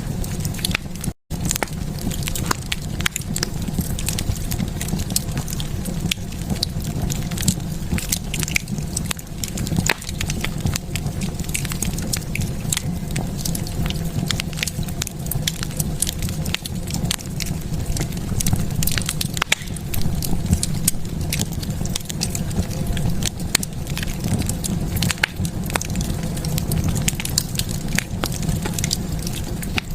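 Fire burning in a fireplace, crackling with many irregular sharp pops over a steady low rumble. The sound cuts out for an instant about a second in.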